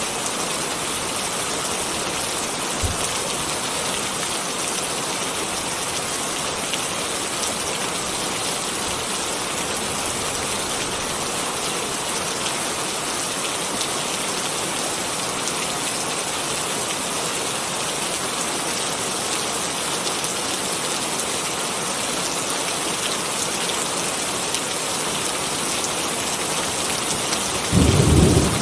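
Steady rain falling, an even hiss. Near the end a sudden loud rumble of thunder breaks in.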